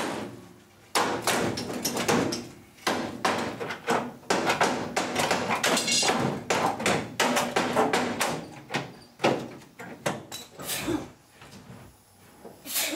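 A rapid, irregular run of knocks, bangs and clanks from hand tools and metal body parts as an old pickup's cab and bed are unbolted and pulled apart. The strikes come close together, then thin out briefly near the end.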